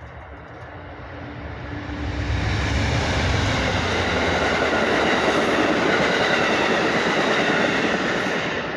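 A passing vehicle's rushing noise, building over about two seconds, holding steady and loud, then beginning to fade near the end.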